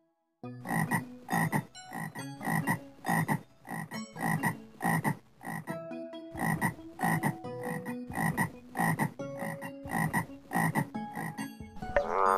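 A frog croaking in a steady rhythm, about two croaks a second.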